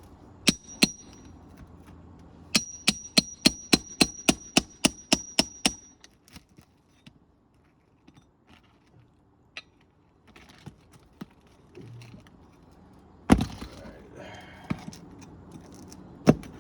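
Hammer striking a metal roof snake nail-removal tool to work a roofing nail out from under an asphalt shingle. There are two strikes, then a run of about a dozen quick ringing metal strikes at about four a second, and later two single heavier knocks.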